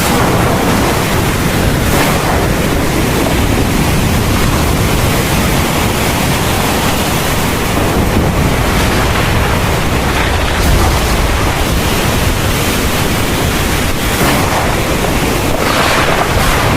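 Heavy thunderstorm rain pouring steadily: a dense, loud hiss with a deep rumble underneath.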